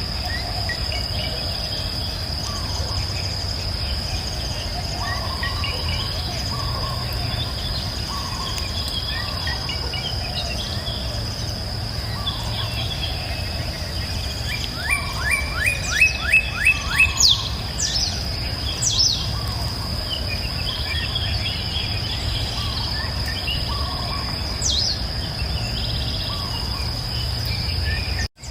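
Birds chirping and singing over a steady high insect trill and the low rush of river water. About halfway through, one bird gives a loud, quick series of about seven descending notes.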